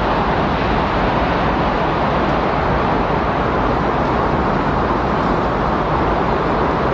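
Windstorm ambience: a steady, even rush of strong wind with no gusts, breaks or distinct events.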